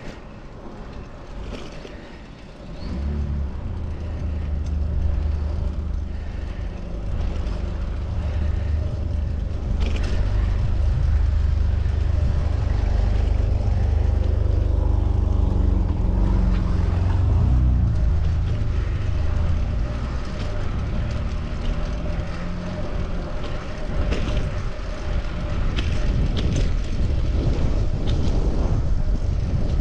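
Motor vehicle engine running close by in city traffic, a loud low rumble starting about three seconds in, shifting in pitch midway and dropping away near the end, over wind and road noise from the ride.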